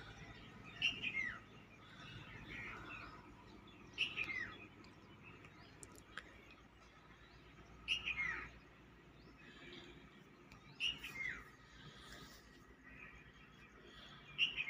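A bird calling: a short call that falls in pitch, repeated five times at intervals of about three to four seconds.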